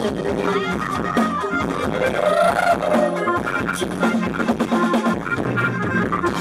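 Loud music played over a rot hae, a Thai parade sound truck's amplified sound system, with instruments carrying a melody throughout.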